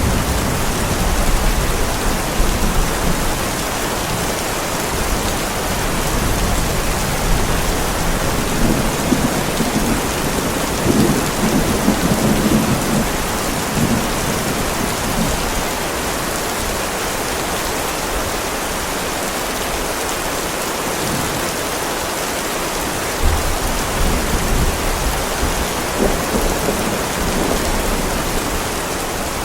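Heavy rain pouring steadily onto a driveway, with low rolling thunder rumbling beneath it three times: at the start, around the middle, and again a few seconds before the end.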